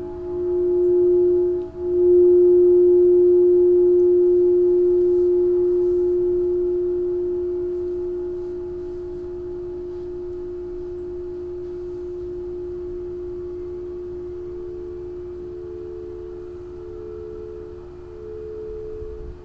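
Crystal singing bowls ringing: one steady low, pure tone swells about two seconds in and slowly fades. From about thirteen seconds in, a second, slightly higher bowl tone joins, pulsing about once a second.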